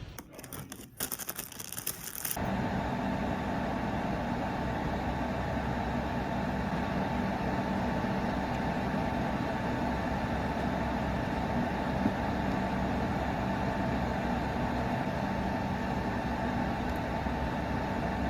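Steady drone of a vehicle cabin in motion: an even rushing noise with a faint constant hum, coming in about two seconds in after a few brief crackles.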